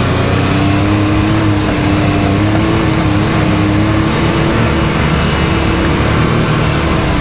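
Can-Am Maverick X3 side-by-side's turbocharged three-cylinder engine running steadily on the trail. Its pitch rises a little about half a second in, then eases back near the middle.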